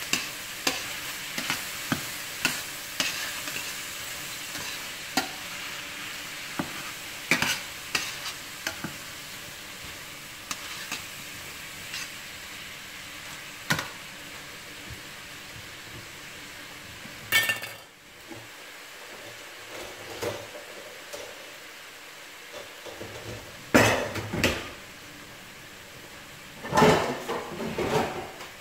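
Chicken, diced ham and onion sizzling in melted butter in a metal pan, with a metal spatula scraping and clicking against the pan as the food is stirred. The sizzle fades somewhat partway through, and there are a few louder scrapes about 17, 24 and 27 seconds in.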